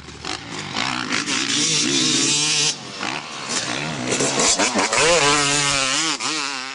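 Motocross bike engine revving up and down as it is ridden, with a short drop in revs about three seconds in and a steadier pitch near the end.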